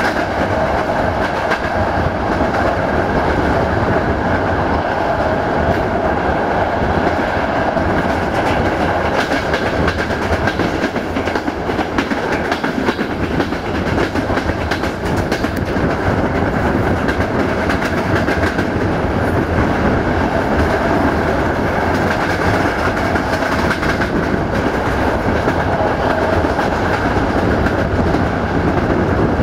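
Passenger train running along the line, heard on board: a steady rumble of wheels on rail with repeated clicks over the rail joints.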